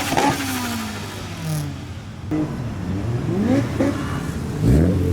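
Modified car engine revving as it drives past, its pitch rising and falling several times, with the loudest rev near the end.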